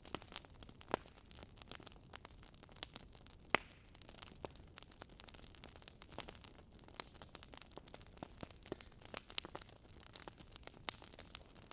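Wood fire crackling in a fireplace: irregular sharp pops and snaps over a faint low hiss, with one louder pop about three and a half seconds in.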